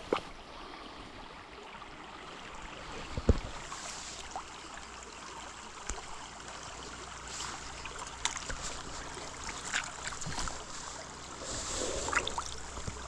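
Small creek running over rocks, a steady rush of water, with a sharp knock about three seconds in and a few light clicks and rustles after it.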